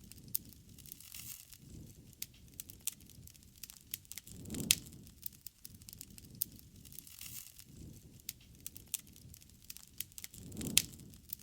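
Campfire burning, wood crackling with many small sharp pops and two louder snaps, about five seconds in and near the end, over low swells of flame.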